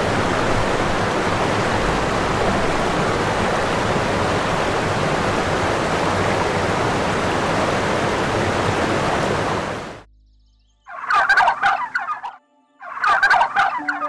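A steady rushing noise cuts off suddenly about ten seconds in. After a short pause come two loud, rapid, pulsing animal calls, about two seconds apart.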